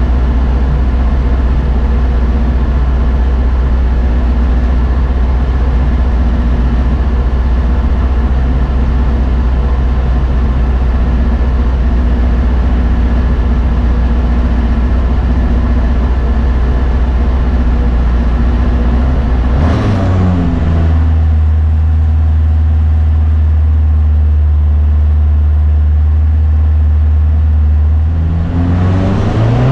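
Rallycross car's engine heard from inside the cabin, held at steady revs on the start line. The revs shift about two-thirds of the way in, settle, then climb again near the end.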